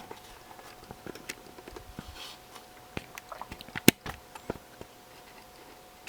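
Handling noise: scattered small clicks and taps, with one sharper click about four seconds in, over a faint steady hum.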